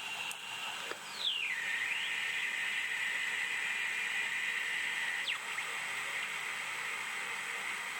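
A homemade electronic music recording playing back through a microcassette recorder's small speaker at full volume: a high drone tone that glides down in pitch about a second in and then holds steady, over a faint tape hiss.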